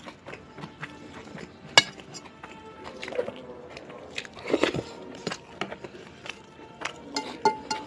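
Eating sounds: scattered clinks against a plate and chewing, the sharpest clink about two seconds in, over soft background music with plucked notes.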